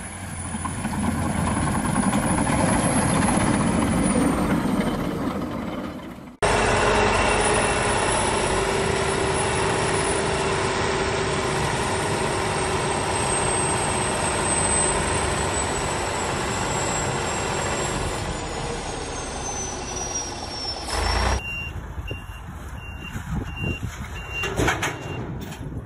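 Heavy equipment engines running, loud and steady, with an abrupt change to a different machine about six seconds in. Near the end a backup alarm beeps repeatedly, a little more than once a second.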